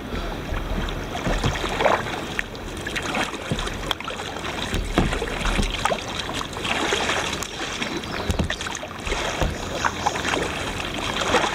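Kayak paddling: water splashing and dripping from paddle strokes, with wind rumbling on the microphone.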